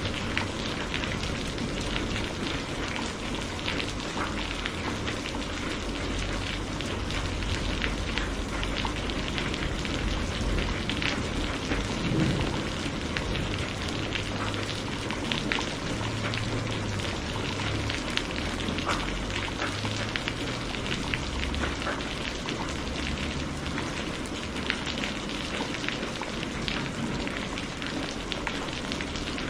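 Steady rain falling, with many small drop ticks, over a low, uneven rumble of distant thunder.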